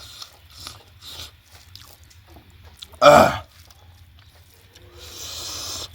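A person eating, with faint chewing clicks and one loud, short burp about three seconds in. A breathy hiss follows near the end.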